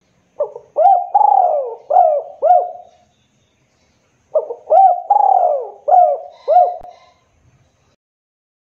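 Spotted dove cooing: two calls, each a run of four or five short hooting coos lasting about three seconds, with a pause of about a second between them.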